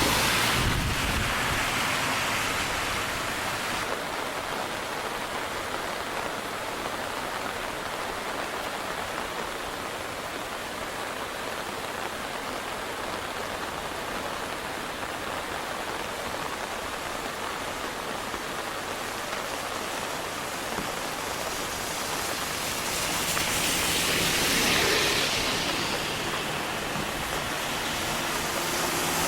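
Steady rushing of fast, high river water, swelling twice.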